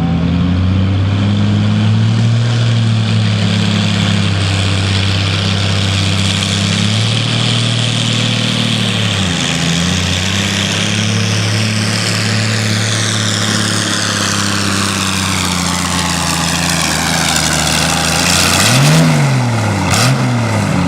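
Massey Ferguson farm tractor's engine running steadily under full load while pulling the weight sled. About nine seconds in the pitch dips briefly and recovers, and near the end the engine revs up and down twice.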